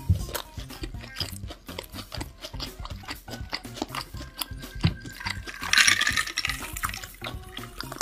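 Close-miked chewing of a mouthful of beef burger: a dense run of wet mouth clicks and smacks, with a louder burst of rustling noise about six seconds in.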